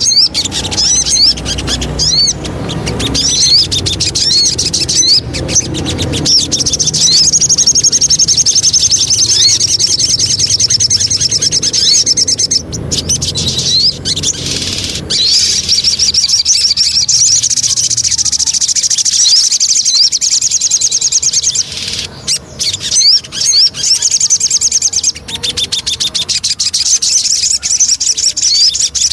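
Sogon songbird singing: rapid, high chirping trills repeated in long runs, broken into shorter phrases near the end. A low rumble sits under the song in the first half.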